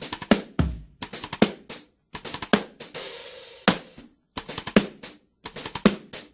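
Background music: a drum kit alone, snare, kick and cymbals, playing a choppy beat. Short clusters of hits are broken by brief dead stops, as the song's drum intro.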